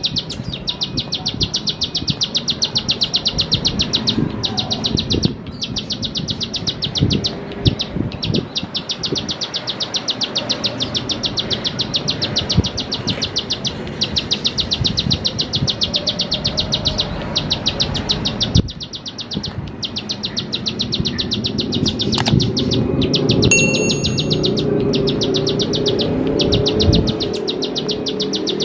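Plain prinia singing: a long, fast run of short, evenly repeated high ticking notes, broken only by brief pauses, with a short clear whistle near the end.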